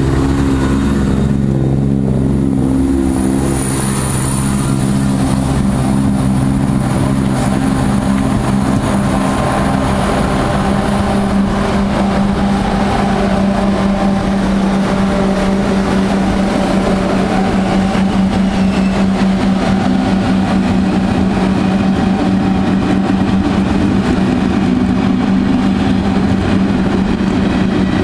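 A Eurostar Class 373 high-speed electric train running past: a steady loud rumble of wheels on rail with a constant low hum. A thin high whine fades out in the first half.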